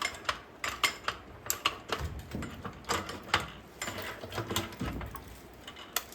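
Quick, irregular metallic clicks and taps with a few dull knocks, from a jack and blocks of wood being worked to press a bearing and race onto a Coleman axle.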